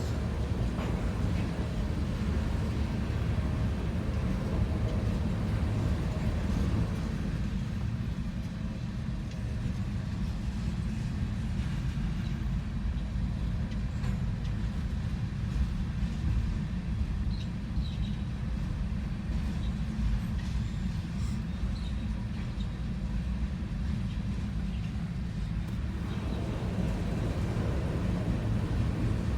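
Freight train of hopper cars rolling past: a steady low rumble of steel wheels on rail, with a few faint, brief high squeaks in the middle.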